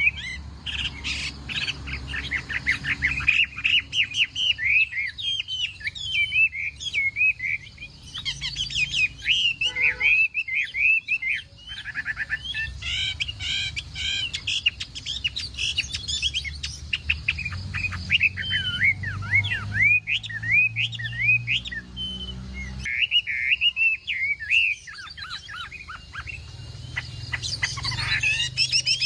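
Chinese hwamei (hoạ mi) singing a long, rapid, varied song of quick whistled slurs and trills, with short breaks about ten and twenty-three seconds in. A low steady hum runs underneath.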